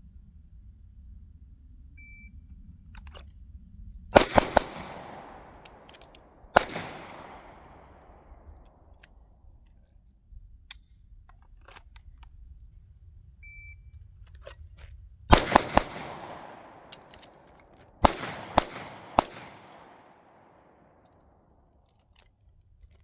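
Gunfire in two strings, each started by a short electronic beep like a shot timer's. After the first beep come three quick shots and a fourth about two seconds later. After the second come three quick shots, then three more about half a second apart. Each shot has a long echoing tail.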